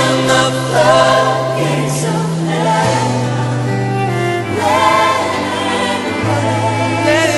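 Choir singing over a band in a worship song, with a sustained bass line that changes note every second or two.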